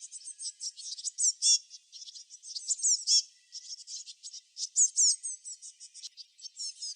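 Songbirds chirping: a dense run of quick high-pitched chirps and short falling whistled sweeps, several birds calling over one another, with a louder phrase of falling notes about every two seconds.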